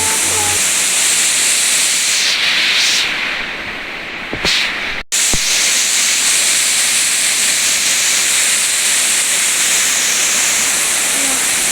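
Waterfall: a steady, loud rush of falling water, with a brief break about five seconds in.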